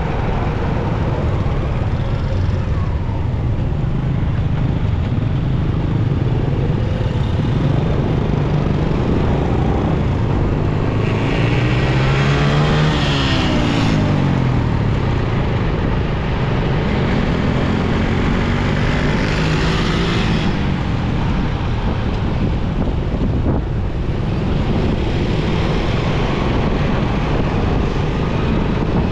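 Steady motorcycle engine and city traffic noise heard from a moving motorcycle. Engine tones rise and then fall about twelve seconds in, and again around eighteen to twenty seconds.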